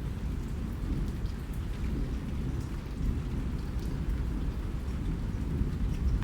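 Steady rain with scattered drop taps over a deep, continuous low rumble.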